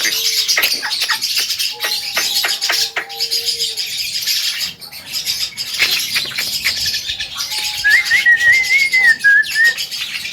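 Javan myna (jalak kebo) calling: rapid harsh chattering and clicks mixed with whistled notes, with a longer wavering whistle near the end.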